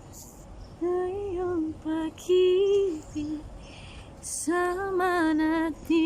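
A woman singing a slow melody in long held notes with vibrato, in several short phrases beginning about a second in, over a faint steady hiss.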